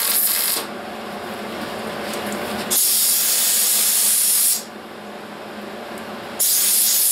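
Welder stitch-welding sheet-metal wheelhouse seams: short welds of about two seconds each with a loud, even hiss, stopping and starting three times. A steady low hum fills the brief pauses between welds.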